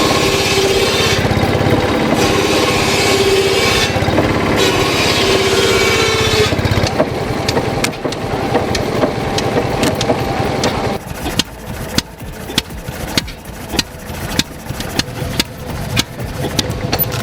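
Vintage engine running, first with a dense steady sound, then from about eleven seconds in with a slow, even beat of sharp knocks, roughly three a second.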